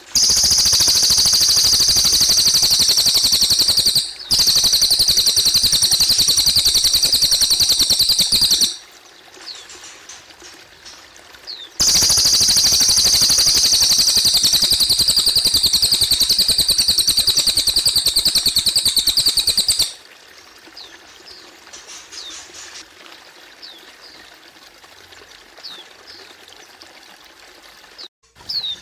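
A cililin bird singing two long, very rapid high-pitched trills of about eight seconds each, with a short gap between. Between and after the trills, water trickles steadily and brief high chirps sound now and then.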